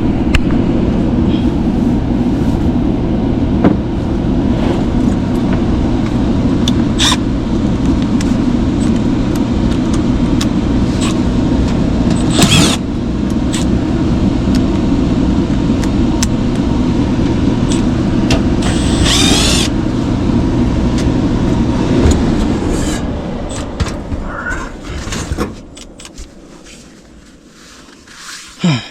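A machine with an electric motor running steadily with a low hum, among scattered knocks and clicks, then winding down and stopping about 23 to 26 seconds in.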